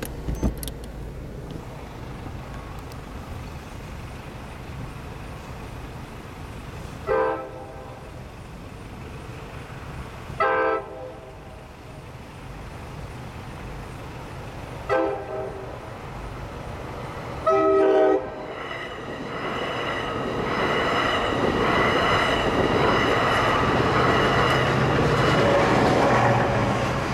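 NJ Transit train's horn sounding four blasts (two longs, a short and a longer final one), the standard grade-crossing signal, followed by the train passing through the crossing, growing louder as the rear-end PL42AC diesel locomotive comes by near the end.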